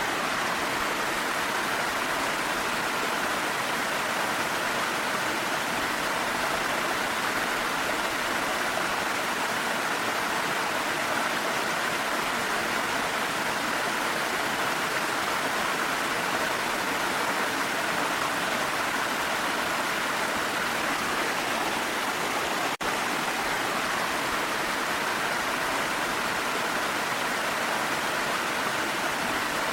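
Steady rush of a mountain waterfall with rain, an even unbroken water noise, with a momentary drop in level about three quarters of the way through.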